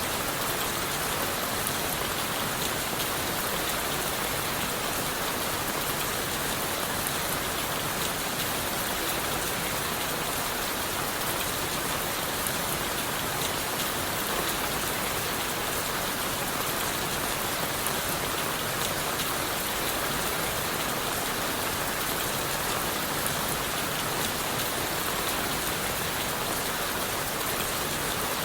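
Steady rain falling on leaves, wood and the forest floor: an even, unbroken hiss with a scatter of individual drop ticks.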